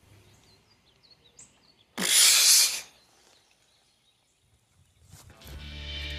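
Faint bird chirps, then a single loud rush of noise about two seconds in that lasts under a second. Music with a heavy bass comes in near the end.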